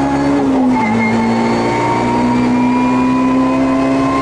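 Rally car engine at full throttle, heard inside the cabin, its pitch climbing steadily as the car accelerates. The pitch drops sharply once a little under a second in, as at an upshift, then climbs again.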